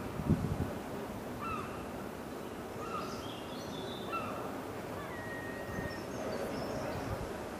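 Birds calling outdoors: a short, arching call repeated every second or so, with scattered higher chirps and one brief whistle in the middle. There is a low thump just after the start.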